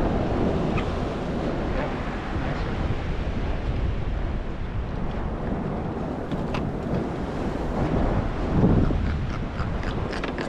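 Wind buffeting the microphone over water washing and lapping around a small boat, with a louder gust about three-quarters of the way through and a run of light clicks and taps near the end.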